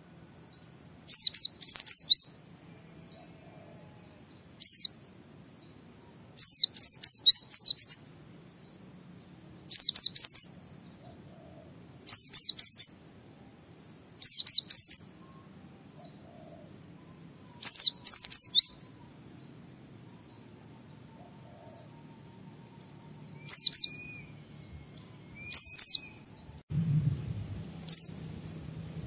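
A white-eye (pleci) singing: short bursts of rapid, high-pitched chirps and trills, one every second or two, over a faint low hum.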